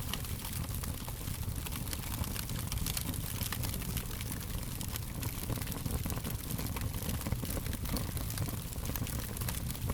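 Fire crackling: frequent small pops and snaps over a steady low rush of flame noise.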